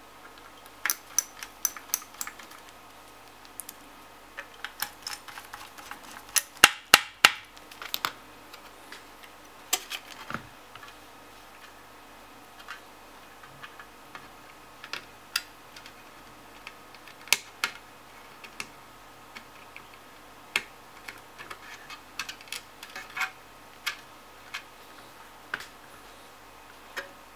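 Scattered sharp clicks and taps of small hard metal and plastic parts being handled as a graphics card is refitted, irregular, with a quick run of loud clicks about six to eight seconds in.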